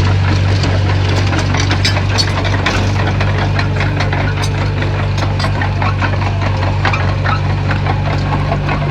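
Komatsu bulldozer's diesel engine running steadily, with frequent sharp cracks and snaps over it.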